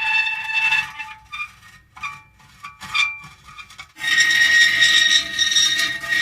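Metal creaking: long drawn-out squealing groans, broken from about one to four seconds in by a quieter stretch of short separate creaks. The long squeal returns loudly near the four-second mark.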